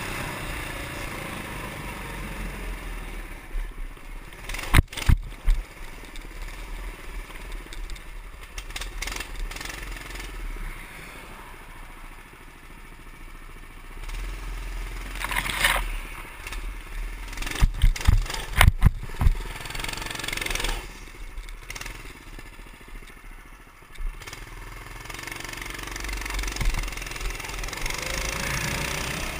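The 196cc single-cylinder Honda-clone engine of a Baja Warrior mini bike running under way, with sharp knocks and clatter in two clusters, about five seconds in and again around eighteen seconds.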